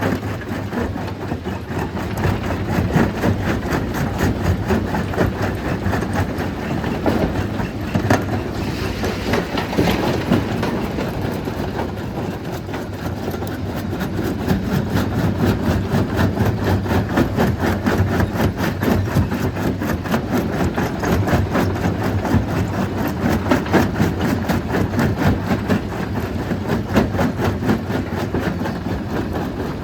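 Stone crusher running at full power, with a steady dense clatter of rock being broken inside it over the machine's low drone.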